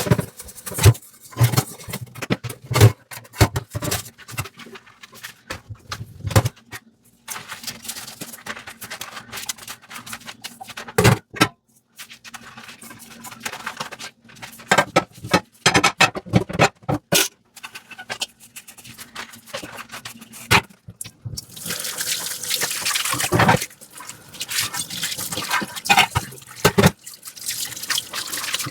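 Dishes being washed by hand at a sink: irregular clinks and knocks of dishes and sponge scrubbing, with water splashing. About three quarters of the way in, a steady rush of water starts and runs for several seconds.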